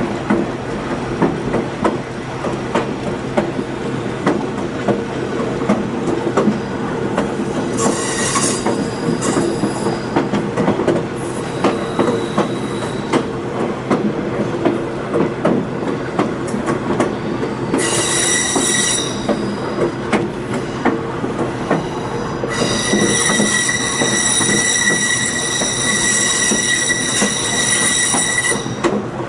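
Passenger train running on rail, with steady clicking of wheels over the track and a constant low hum. Steel wheel flanges squeal against the rail on curves in several high-pitched bursts, and the longest lasts about six seconds near the end.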